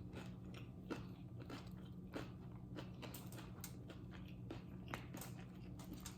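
A person chewing crunchy food close to the microphone: irregular crunches a few times a second.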